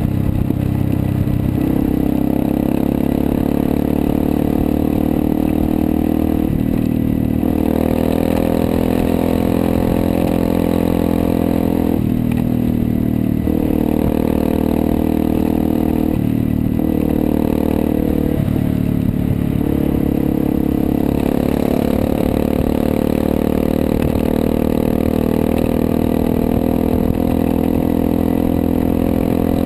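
Motorcycle engine heard from a bike-mounted camera while riding along a highway, running steadily with its note stepping down and picking up again several times as the rider shifts gear and works the throttle.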